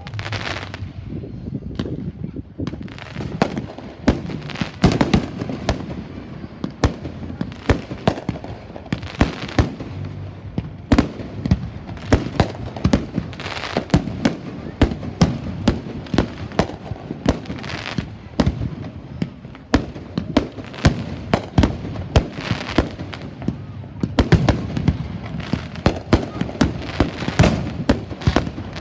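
Fireworks going off: a steady run of sharp bangs, often a couple a second, over a continuous low rumble.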